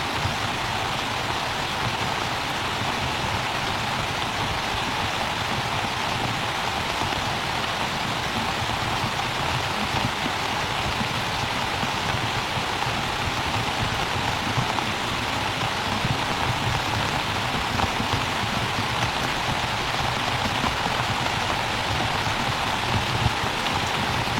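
Steady rain falling, with a few louder drop hits here and there.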